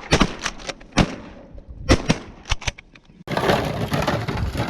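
Several shotguns firing a rapid, uneven volley of shots. About three seconds in, the shots give way to a sudden stretch of steady noise.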